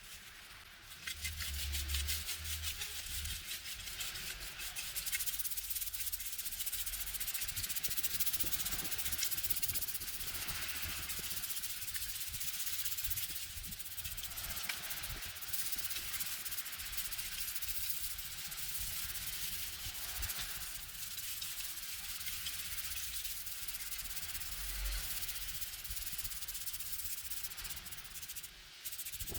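Continuous scratchy scrubbing against a hard surface, with a short low thump about two seconds in and another near the end.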